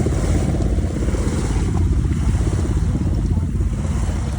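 Wind buffeting the microphone in a steady low rumble, with ocean surf beneath it.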